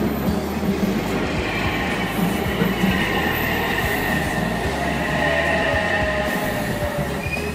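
Odakyu Line electric train passing close by, its wheels running over the rails in a steady rumble. A high, steady whine joins in about two seconds in and stops shortly before the end.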